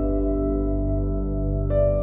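Calm ambient piano music: soft sustained chords, with a new chord struck about a second and a half in, over a low steady background.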